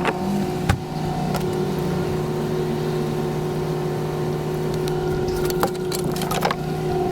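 Vehicle engine running at a steady, unchanging pitch, with a few sharp clicks and knocks over it.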